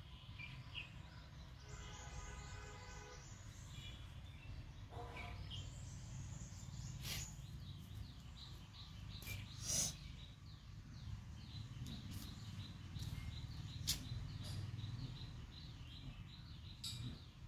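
Birds chirping and calling over a low steady rumble, with a run of short, evenly repeated chirps in the last few seconds. A few sharp clicks stand out, the loudest about ten seconds in and again about fourteen seconds in.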